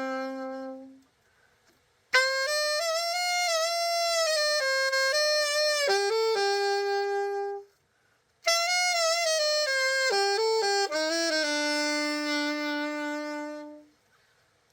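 Yamaha YAS-62 alto saxophone played solo after a full overhaul: a held note ends, then two short melodic phrases follow with a brief pause between them.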